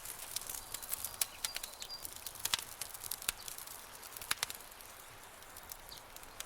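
Campfire crackling: irregular sharp pops and snaps of burning wood over a soft hiss, thinning out about five seconds in.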